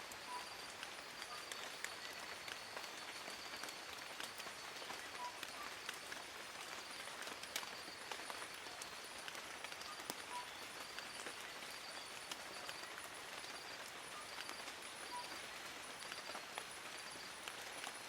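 Steady rain falling on forest foliage: a continuous hiss with many separate drops ticking through it. A faint high-pitched tone runs underneath, breaking up into pulses.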